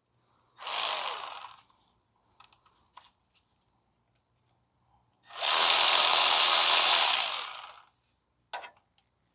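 Handheld power tool run in two bursts, a short one of about a second and a longer one of about two and a half seconds, its motor winding down after each. A few light metal clicks come between the bursts and near the end.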